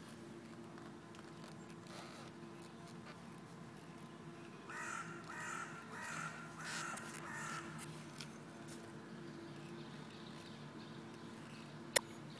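A bird calling about five times in a quick series midway through, over a faint steady hum. Near the end comes a single sharp click.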